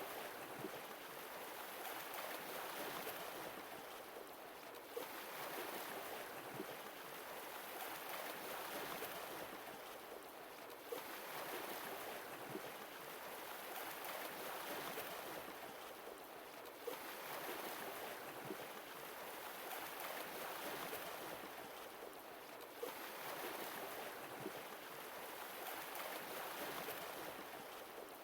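Sea waves washing in and drawing back, swelling and fading about every six seconds, with a small click in each lull.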